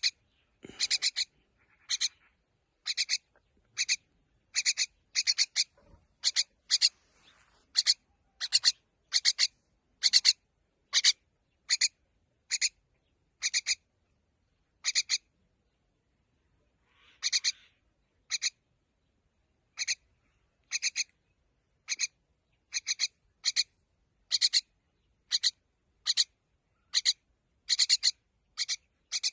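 A bird giving short, harsh chirping calls over and over, each a quick rattle, about one a second, with a pause of a couple of seconds about halfway through.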